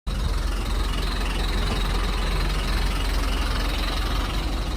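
A vehicle engine idling, a steady low rumble with street noise over it.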